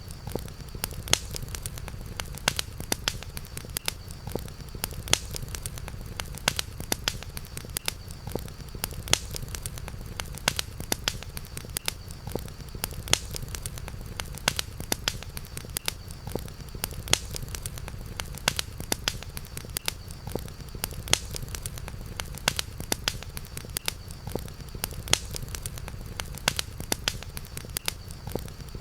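Campfire burning with steady dense crackling and sharper pops, over a low steady rumble of the flames, with a faint steady high tone underneath.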